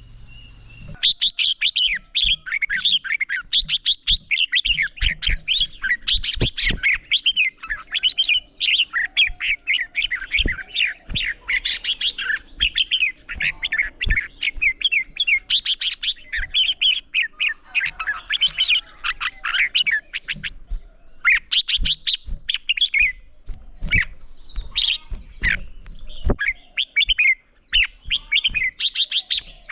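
Red-whiskered bulbuls singing in quick, overlapping chirping and warbling phrases: the birds' competitive fighting song.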